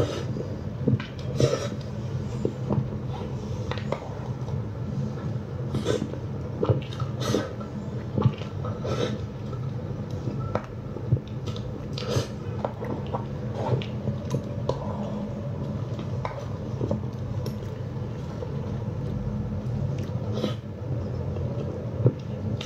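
A person chewing food close to the microphone, with irregular wet mouth clicks and smacks, over a steady low hum.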